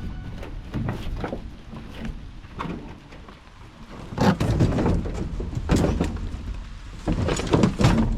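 Irregular knocks and thuds of junk being handled and dropped during a cleanout, over a steady low rumble; the heaviest knocks come in the second half.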